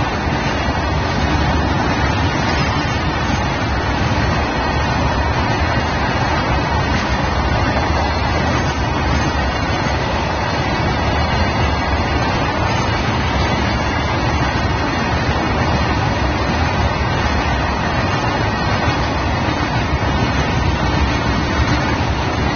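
BOXN open freight wagons of a long goods train rolling past at close range: a loud, steady rumble of steel wheels on the rails.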